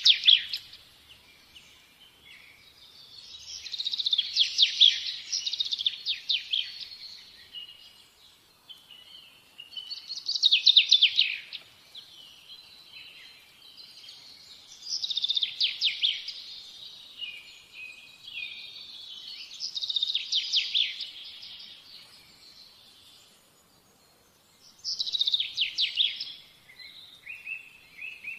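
Birdsong: a songbird singing bursts of rapid chirps and trills about every five seconds, with fainter chirping between.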